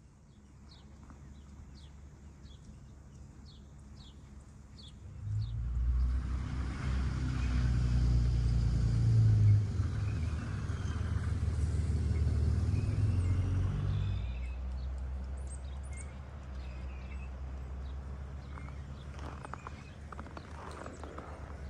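A passing vehicle's engine drone swells in about five seconds in, holds loud for several seconds, and fades away after about fourteen. Faint bird chirps are heard before and after it.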